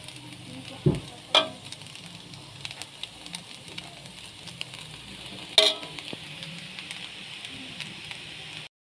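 Kitchen sounds: a steady hiss with a low knock about a second in and two ringing metal clinks of a utensil, one near the start and one past the middle.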